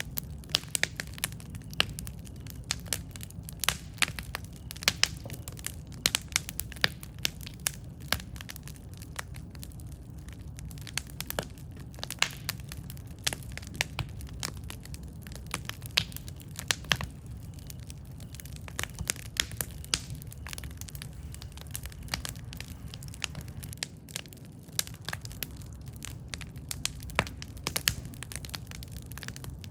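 Campfire burning, the wood crackling and popping in frequent sharp, irregular snaps over a steady low rumble.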